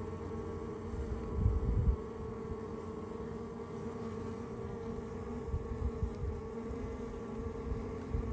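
Honeybees from an active Africanized colony in a water meter box buzzing in a steady, pitched hum, with a few brief low rumbles on top, loudest about a second and a half in.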